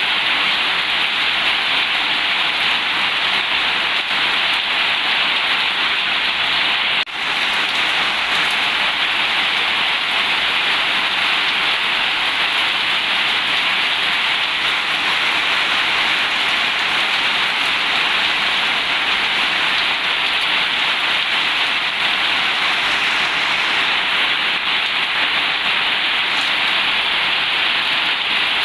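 Heavy rain falling steadily on a zinc (corrugated metal) roof, a dense even hiss, with a momentary drop in level about seven seconds in.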